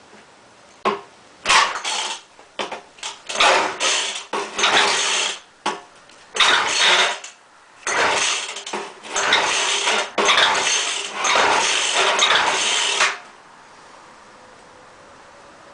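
Gas leaf blower's recoil starter pulled over and over, a dozen or so whirring pulls of uneven length. The engine turns over without running, being started cold without the choke set. It stops abruptly near the end.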